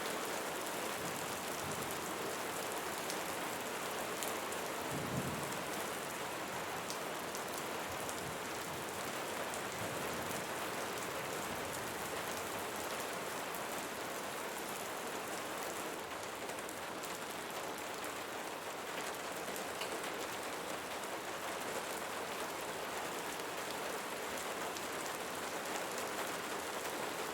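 Steady rainfall: a dense, even hiss with scattered fine drop ticks. There is one brief low thump about five seconds in.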